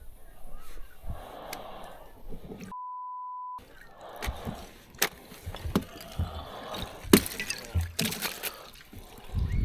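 Water splashing and trickling beside a boat with scattered knocks of gear, cut about three seconds in by a steady censor bleep just under a second long.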